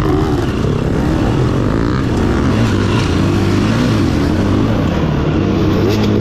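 Dirt bike engine running under way at a fairly steady pace, its pitch wavering up and down a little.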